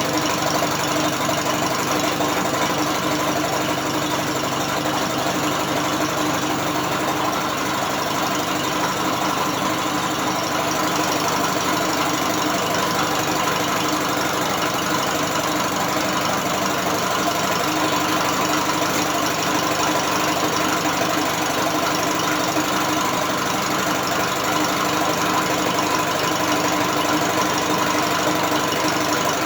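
British Seagull outboard motor being turned over by an electric drill rather than running on its own, a steady mechanical sound with an even, unchanging pitch.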